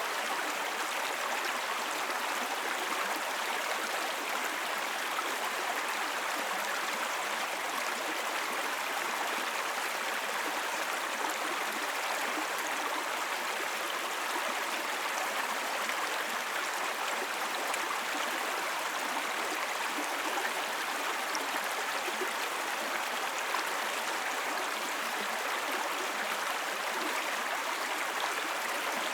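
Small babbling brook: water running and burbling over stones in a steady, even rush.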